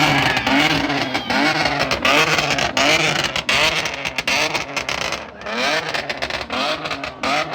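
Muscle-car V8 engine revved hard in quick repeated blips, its pitch rising and falling about twice a second, over loud noise with sharp pops and crackles.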